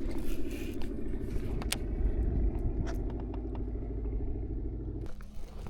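Electric kayak motor running steadily with a low hum and hull rumble, then cutting off suddenly about five seconds in.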